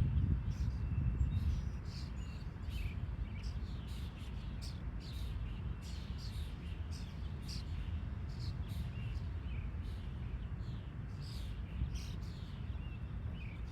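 Small birds chirping again and again, short quick calls that fall in pitch, over a steady low rumble.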